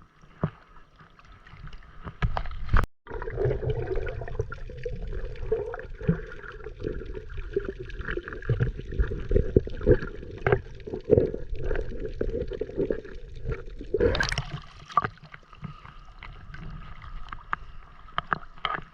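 Water sloshing and splashing with many small knocks and handling noises, as a fishing net is worked through the water. The sound breaks off abruptly about three seconds in, and there is a louder splash a little after the middle.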